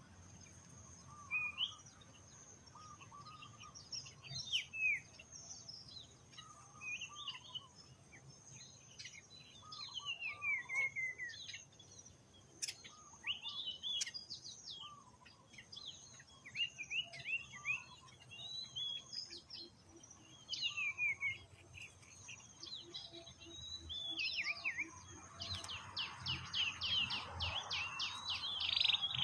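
Wild birds chirping and calling: short high chirps, many sweeping downward in pitch, repeated irregularly, with a fast rattling trill of about eight notes a second near the end. A faint steady high tone runs underneath.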